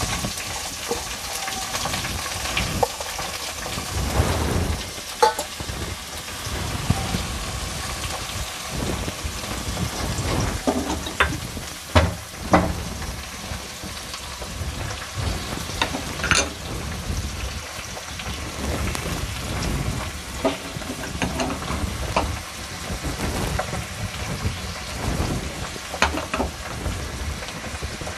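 Fresh leafy greens dropped by the handful into hot oil in an aluminium kadai, giving a steady sizzle and rustle of leaves. Scattered sharp knocks and clinks, loudest about halfway through, as the bowls are tipped out over the pan.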